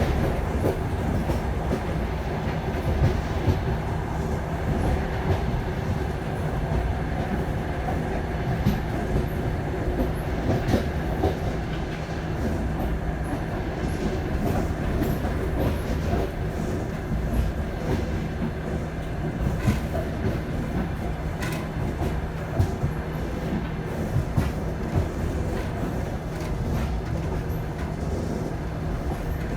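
Passenger train running along the track: a steady low rumble with wheels clicking over the rail joints, and now and then a sharper clack.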